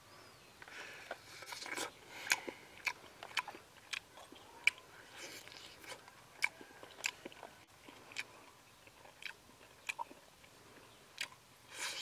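A man chewing and biting grilled pig intestine off a bamboo skewer close to the microphone: sharp, irregular mouth clicks and smacks, roughly one every half second.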